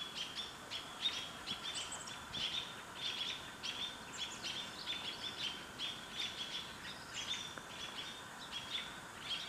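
Songbirds giving a steady run of short, sharp, high alarm chirps, about four a second. This is mobbing calling, which usually means an owl or sometimes a raven is hidden nearby.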